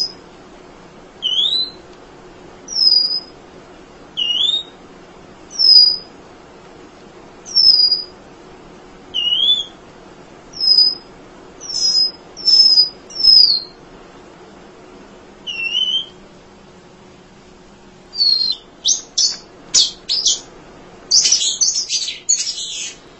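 An emprit songbird singing: short clear whistled notes with a quick slide in pitch, repeated about one every second and a half, then in the last few seconds a fast run of sharp chirps.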